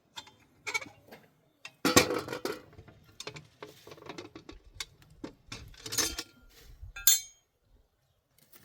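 Hard objects being handled, clinking and knocking in an irregular string of sharp strikes, with a brief ringing clink near the end.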